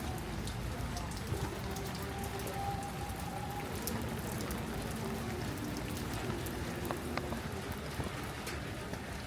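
Steady rain falling, with many scattered sharp ticks of individual drops hitting a surface.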